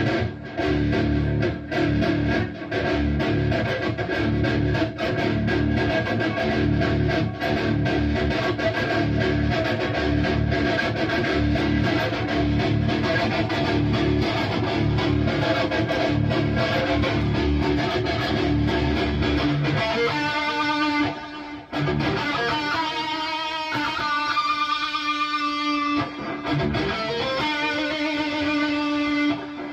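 High-gain distorted electric guitar played through a Bogner Uberschall preamp module. A heavy, bass-laden riff runs for the first twenty seconds or so, then the playing moves to higher single-note lines with much less low end.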